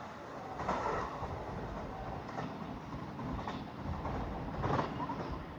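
Train running on the track with a steady rumble, its wheels knocking a few times, about a second or so apart, over rail joints.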